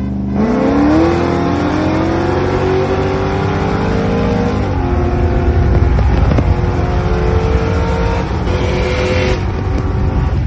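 Several high-performance car engines accelerating hard together, their pitch rising steadily. About four and a half seconds in the pitch drops, as at an upshift, then climbs again before fading near the end.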